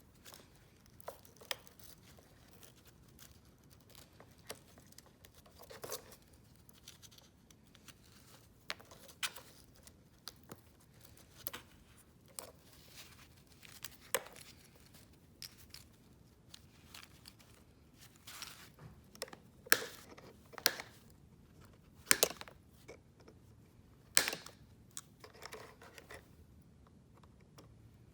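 Irregular sharp clicks, snaps and crinkling of hands working at a vacuum cleaner's plastic and wire parts, stripping it for its copper. The sounds come in uneven clusters, busier in the second half.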